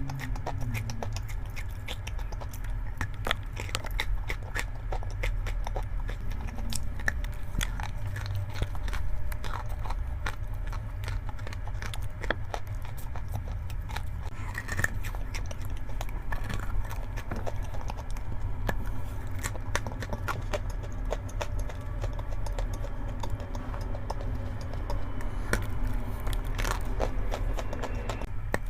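Close-miked crunching and chewing of chalk, with many short sharp crunches and crackles coming irregularly throughout, over a steady low hum.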